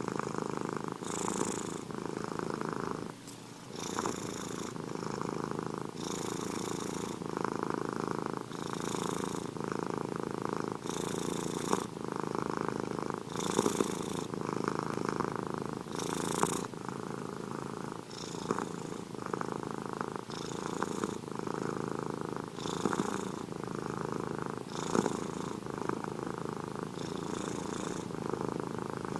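Domestic cat purring steadily and close up, the purr swelling and easing in a regular rhythm about every two seconds with each breath in and out.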